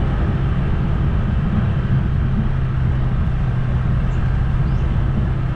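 A vehicle engine running steadily, with a constant low hum and an even wash of road noise.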